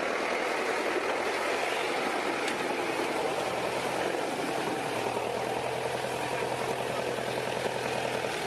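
Engine of a construction machine running steadily, a continuous even noise with a faint low hum.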